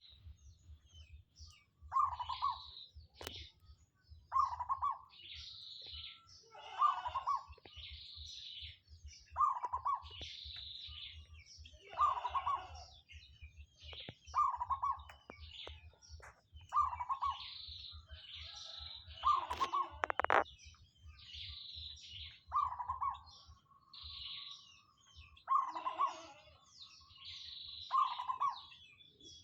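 A pet bird singing a short phrase over and over, about every two and a half seconds, with higher chirps between the phrases, over a low steady hum.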